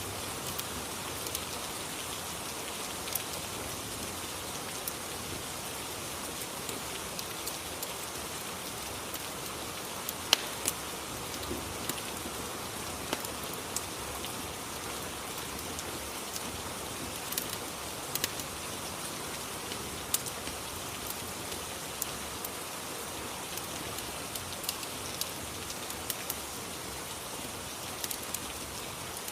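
Rain and fireplace ambience: the steady hiss of falling rain, with sharp crackling pops scattered irregularly through it.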